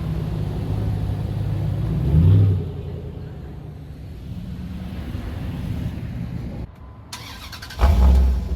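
A car's engine and road noise while driving, swelling briefly about two seconds in. Near the end the sound drops out for a moment, then a louder, deeper engine rumble comes in.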